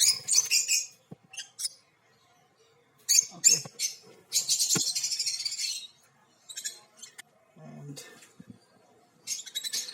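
Lovebirds chattering in shrill, high-pitched bursts, with a longer spell of rapid chatter about four to six seconds in.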